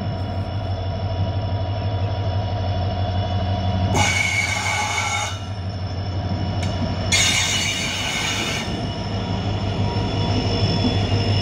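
WDP4D diesel locomotive and its passenger coaches rolling slowly through a curve, the locomotive's engine running with a steady low drone while the wheels squeal against the rails in steady high tones. Twice, about four and about seven seconds in, a harsh high screech lasts about a second and a half.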